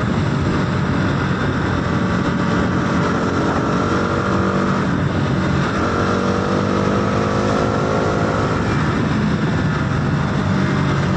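Motorcycle engine running at road speed under heavy wind rush, its note climbing gradually as the bike gathers speed.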